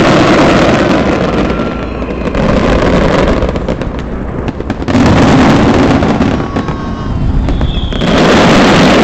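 Fireworks display: a dense crackle of many bursts and bangs, swelling and fading in loud waves every two to three seconds.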